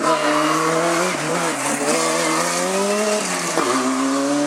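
Hillclimb race car's engine accelerating hard, its pitch climbing and dropping sharply at upshifts about a second in and again a little past three seconds.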